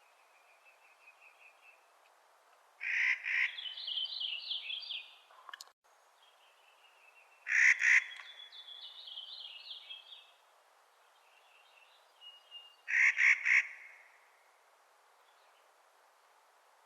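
Clark's nutcracker giving harsh, grating calls three times, each a quick two or three strokes. The first two are each followed by a rapid, rattling series of higher notes lasting about two seconds, and a fainter rattling series comes at the start.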